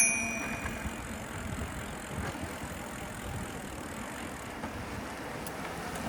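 The fading ring of a bicycle bell in the first second, then steady wind and road noise from a bicycle being ridden.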